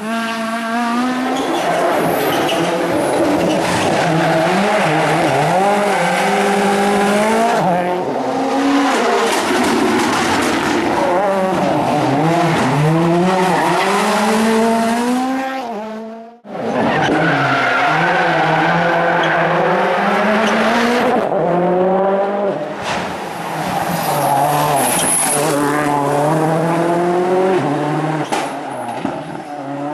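Rally cars at full throttle on a special stage, the engine note climbing and then dropping at each gear change or lift. The sound breaks off abruptly about 16 seconds in, and another car's engine comes in straight after.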